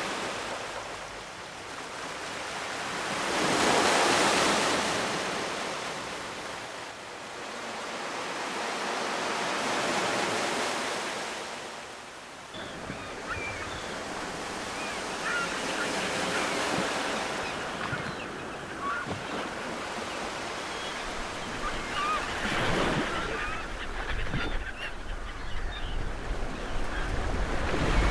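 Ocean waves washing onto the shore, two big swells rising and falling in the first half. About halfway a steadier surf hiss takes over, with birds calling in short squawks throughout, and a low wind rumble near the end.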